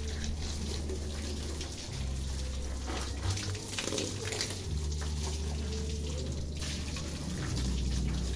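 Running water splashing as motorcycles are washed, an irregular steady spray.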